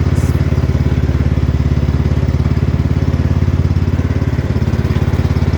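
Cub Cadet XT1 Enduro garden tractor engine running steadily under way, a loud, even low throb of firing pulses.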